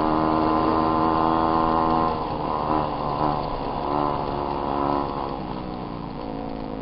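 Small dirt bike engine running steadily, then revved in a few short blips, after which it runs quieter and lower toward the end.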